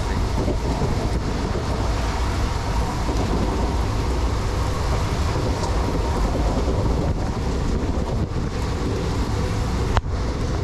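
Steady rush of wind and rain at the open door of a moving passenger train, with a heavy low rumble of wind buffeting the microphone over the train's running noise. A single sharp knock about ten seconds in, after which it is a little quieter.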